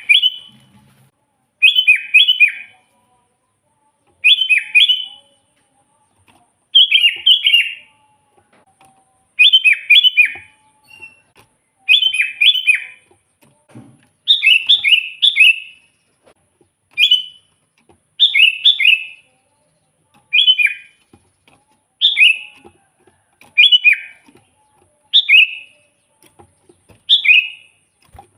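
Sooty-headed bulbul singing: short, bubbly phrases of a few quick falling notes, repeated every two to two and a half seconds at first and then every second and a half or so.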